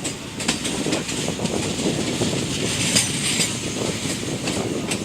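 Moving train: wheels clicking over rail joints at uneven intervals over a steady rumbling run noise.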